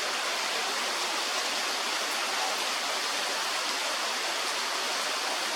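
Steady rain falling, an even hiss of water with no distinct drops or breaks.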